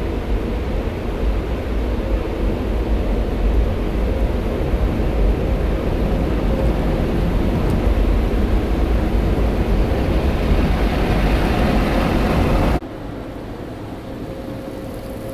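Tunnel car wash equipment working on the car and heard from inside it: a loud, steady rushing and rumbling that drops off suddenly about thirteen seconds in, leaving a quieter rush.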